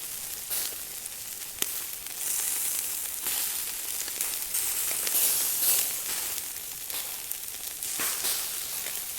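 Steady hiss of falling rain, with a few sharp ticks.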